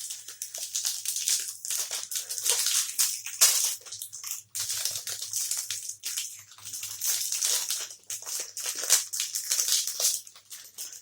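Plastic protein-bar wrapper crinkling and crackling in irregular bursts as it is squeezed and handled, with brief pauses about halfway and again later.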